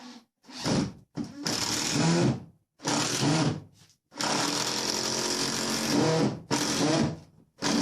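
Power drill running in a series of short bursts and one steady run of about two seconds, drilling or driving screws into the shed's timber supports.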